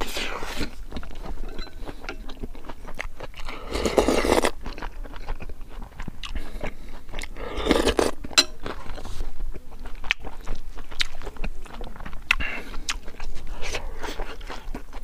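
A person chewing and crunching crispy pork and rice with wet mouth sounds, close to a clip-on microphone. There are louder mouth sounds, including a sip from a spoon, about four and eight seconds in.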